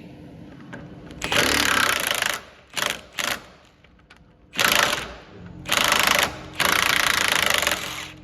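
Power impact tool hammering in several short bursts of rapid blows, the longest near the end, used on bolts and parts of a Subaru WRX's front hub and suspension.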